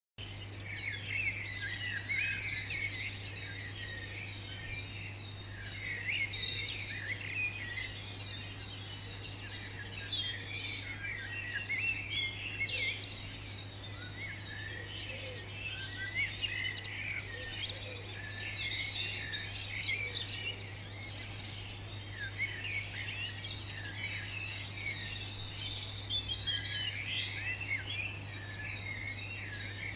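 Several songbirds singing at once: a dense, unbroken run of overlapping chirps and trills, over a steady low hum.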